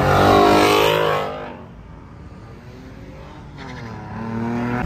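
A Ford Mustang's engine as the car drives past, loud for the first second or so and then fading away. Another car's engine builds up near the end.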